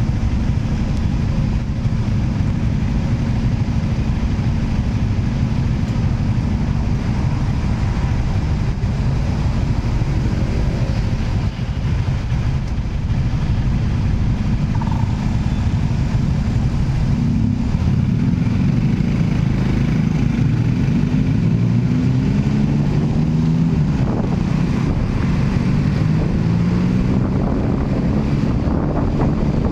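A road vehicle's engine running steadily; in the second half its pitch climbs and drops back again and again as it speeds up.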